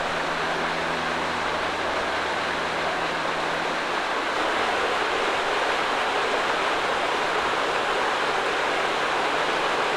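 Mountain creek rushing steadily over boulders and down into deep pools.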